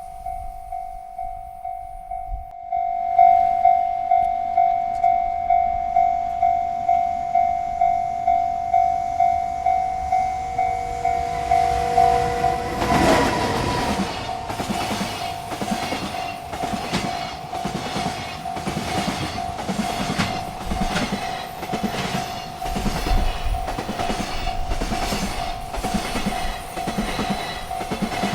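Railroad crossing bell ringing in a steady pulse, about two strokes a second. About thirteen seconds in, a freight train arrives at the crossing and its wagons pass with a rhythmic clickety-clack of wheels over the rail joints, the bell still ringing beneath.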